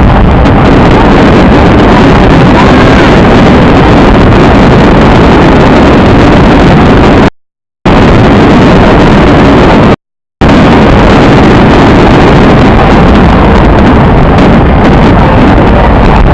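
Fireworks show barrage overloading the microphone, the bursts merging into one loud, continuous low rumble. Twice, about seven and ten seconds in, the sound cuts out completely for under half a second.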